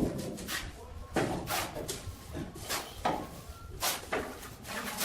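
Tile-laying work: a run of irregular knocks and scrapes, about eight in five seconds.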